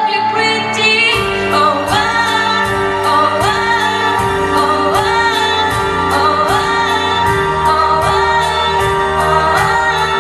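A girl singing a pop ballad over a backing track, with a held low note underneath, a melodic figure that rises about once a second, and a steady bass pulse.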